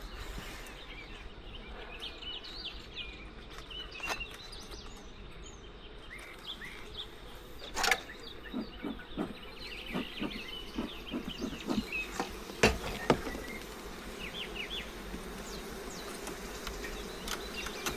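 Honeybees buzzing steadily around an opened hive, with scattered knocks and taps of the wooden hive parts being handled, the loudest about two-thirds of the way through.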